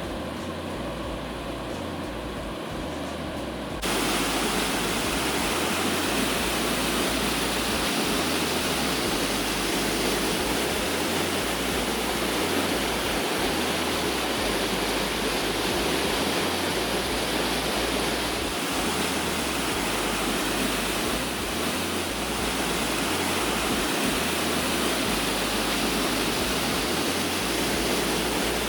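Water rushing down a dam spillway in a steady, continuous rush, louder from about four seconds in.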